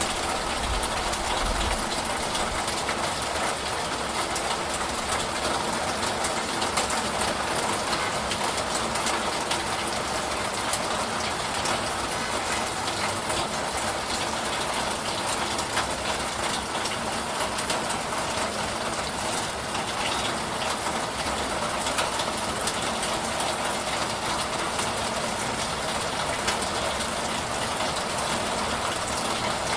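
Steady rain shower, an even hiss of falling rain with dense fine pattering drops.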